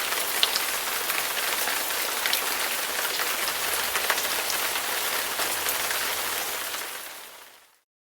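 Steady rain with scattered drop ticks, a recorded rain sound effect from iMovie's effects library; it fades out near the end.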